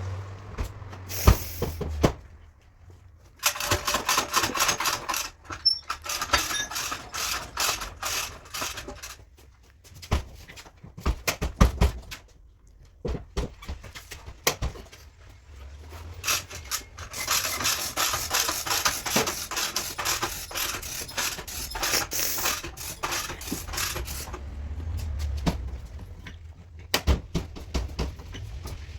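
Hand bodywork on a car's sheet-metal panel: scattered sharp taps and knocks of tools on metal, with two longer stretches of steady rubbing, like sanding or filing.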